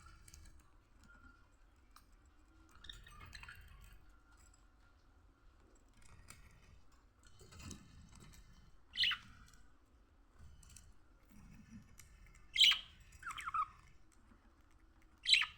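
Budgerigars calling: a few short, sharp chirps that fall in pitch, the loudest about nine, twelve and a half, and fifteen seconds in, with fainter chirping between.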